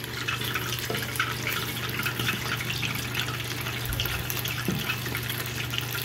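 Battered eggs deep-frying in a small pot of hot oil, the oil sizzling and crackling steadily with many small pops. A steady low hum runs underneath.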